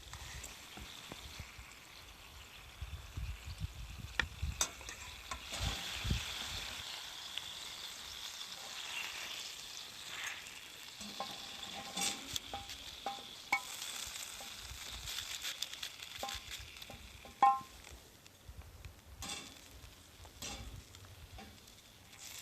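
Chicken frying in a pan, sizzling steadily, with scattered clicks and scrapes of a cooking utensil against the pan and one sharper knock about seventeen seconds in.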